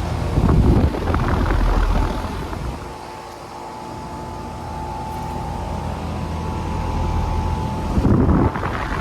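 Outdoor central air conditioner condensing units running: a steady compressor hum with a tonal drone and the rush of the condenser fan. Louder gusts of rushing noise come about a second in and again near the end.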